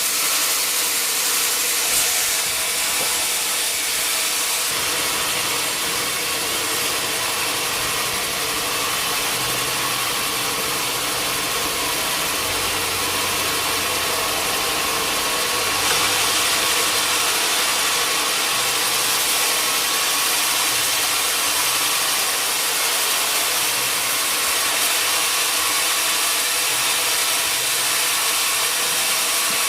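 Sawmill machinery running steadily: a constant hiss with a low hum that shifts up and down in pitch now and then.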